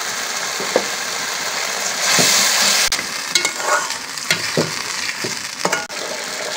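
Onion-and-spice masala sizzling as it fries in a steel pan, with a metal spatula stirring and scraping the pan. The sizzle swells louder about two seconds in, and the scrapes of the spatula come in the second half.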